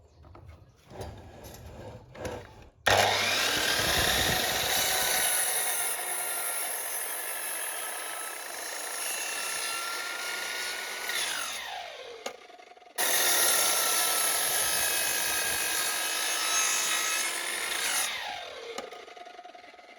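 Sliding mitre saw cutting wooden beam offcuts twice: each time the motor starts suddenly, runs loud while the blade goes through the wood for several seconds, then winds down in a falling whine. Light handling clicks come before the first cut.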